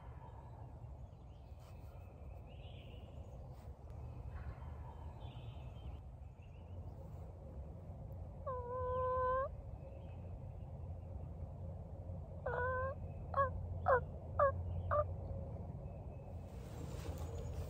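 Bird calls over a steady low rumble: one drawn-out call about halfway through, then near the end a short call followed by four brief falling notes about half a second apart.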